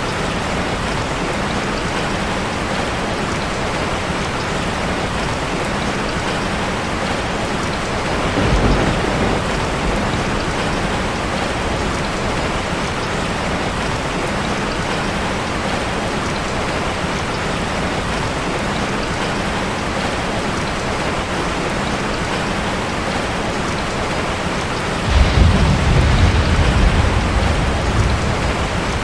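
Steady rain drumming on a metal roof, with low rolls of thunder: a brief one about a third of the way in and a longer, louder rumble near the end.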